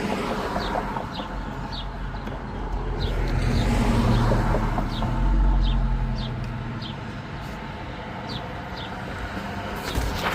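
A vehicle engine's low rumble swells and then fades over several seconds. A bird chirps in short repeated notes about twice a second.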